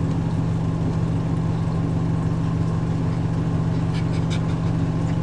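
Washing machine running with a steady low hum while its drain pump works. A few light clicks come about four seconds in.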